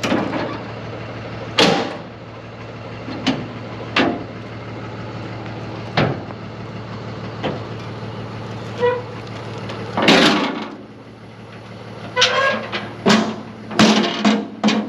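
Maxon hydraulic liftgate being run on a box truck: metal clanks and knocks from the gate over a steady low hum. About ten seconds in a loud rushing noise comes, and the hum drops out briefly before it returns.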